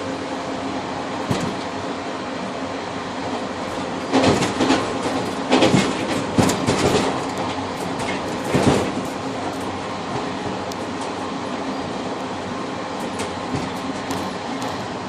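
Passenger train running on the rails, heard from inside the carriage: a steady rumble with a faint hum, and a run of sharp wheel knocks over track joints between about four and nine seconds in.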